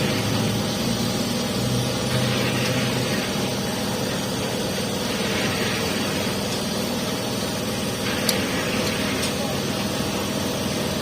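Construction concrete mixer running steadily and noisily, a constant engine drone with a hiss that swells and fades every two to three seconds. A small click about eight seconds in.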